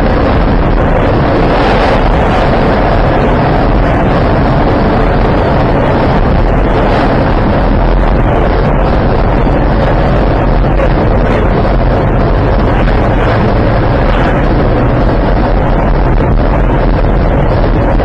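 Loud, unbroken rumble and hiss of road and wind noise picked up by a dash camera's microphone, distorted and holding steady throughout.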